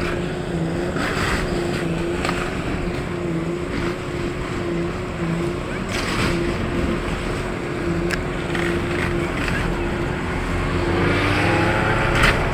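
Diesel engine of a demolition machine running steadily, with a few sharp crunches and knocks as it breaks into the building. Near the end the engine revs up under load.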